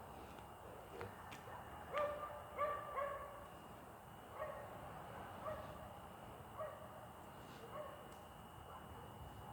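A dog barking, about seven short barks: three quick ones close together, then single barks roughly a second apart, fainter toward the end.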